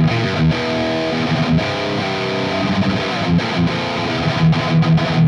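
Distorted electric guitar riff played through an EarthQuaker Devices Plumes overdrive in its symmetrical-clipping mode, boosting a high-gain EVH 5150III EL34 amp. It is heard through a close-miked guitar speaker and keeps much of its low mids.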